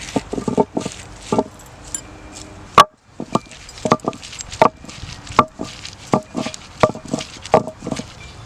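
Knife chopping on a wooden cutting board: irregular sharp strikes about one or two a second, some with a brief ring, the loudest a little under three seconds in.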